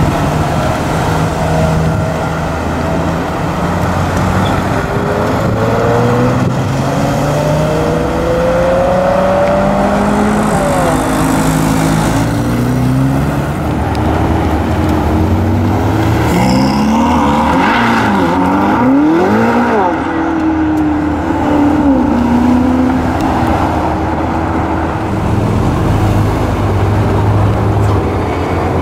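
Supercar engines running and revving. Their pitch steps and glides up and down throughout, and a sharp rise and fall of revs comes about two-thirds of the way in.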